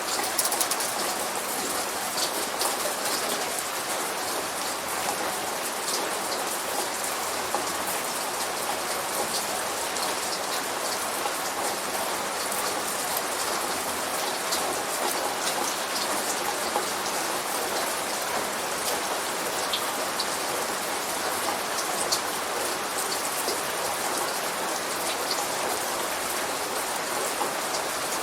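Steady light rain falling, a continuous hiss with many small sharp drop ticks on a hard surface; no thunder.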